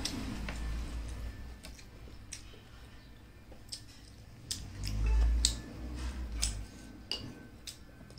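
Close-miked eating by hand: irregular wet mouth clicks and smacks of chewing a mouthful of rice soaked in mutton soup, with a low bump about five seconds in.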